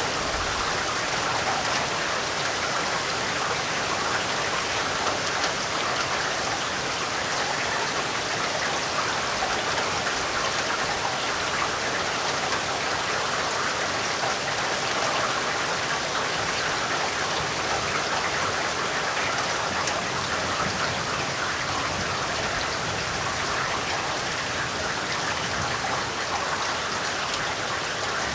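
Steady rainfall, an even, dense patter of raindrops on a surface.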